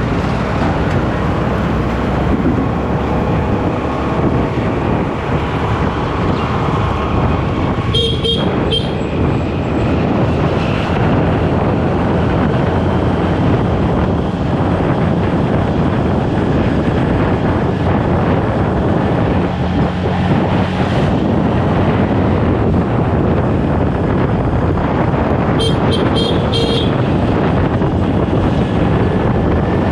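Motorcycle riding in traffic: steady engine, road and wind noise. Short bursts of vehicle horn honking come about eight seconds in and again near the end.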